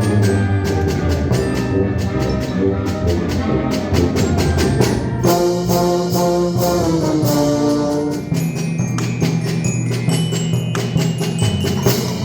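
Brass band playing a fast galop, brass over rapid percussion strokes, with a stepwise falling line of held notes about halfway through.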